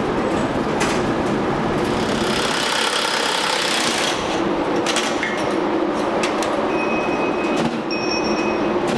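NASCAR Cup cars running on track, a loud continuous engine roar with a few sharp clicks and a thin high whine in the second half.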